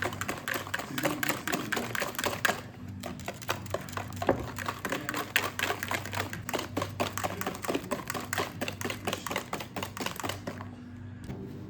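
Rapid, irregular clicking of keys being typed, many strokes a second, stopping about a second before the end.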